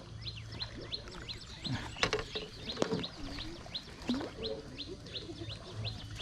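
A high chirping call repeated steadily, about three short falling chirps a second, over a low steady hum, with a couple of faint clicks about two and three seconds in.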